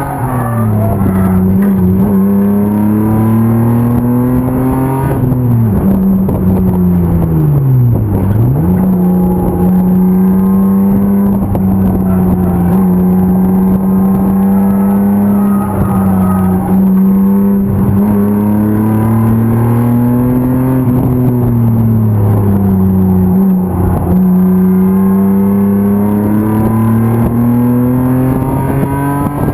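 BMW M50 straight-six engine of an E36 race car running hard on track, its pitch climbing as it pulls and dropping as the revs fall. The note falls away sharply about five seconds in, dips very low around eight seconds, then climbs back and holds, and rises again toward the end.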